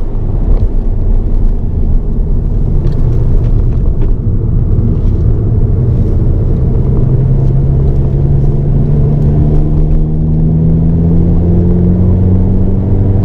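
Hyundai Avante N (Elantra N) 2.0-litre turbocharged four-cylinder heard from inside the cabin under heavy road rumble. After braking, from about halfway through, the engine note climbs steadily as the car accelerates in gear.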